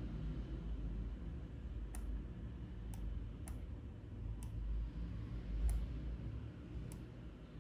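Computer mouse clicking while vector shapes are drawn: six sharp single clicks at irregular intervals, over a steady low hum.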